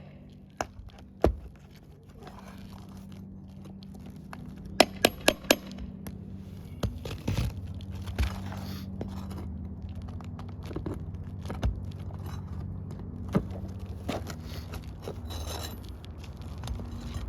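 Metal clinks and scrapes of nails and a pry tool being worked under asphalt shingles: a quick run of about five sharp metallic ticks about five seconds in, with scattered knocks and scraping, over a steady low hum.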